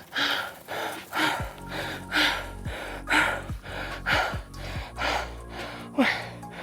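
A man breathing hard and gasping for air, a loud breath about once a second, out of breath after a flat-out effort. Background music plays underneath.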